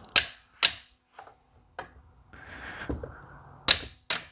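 Sharp metal-on-metal taps and knocks from hand tools working on a diesel injection pump's parts, about six separate strikes, with a second-long hiss about halfway through.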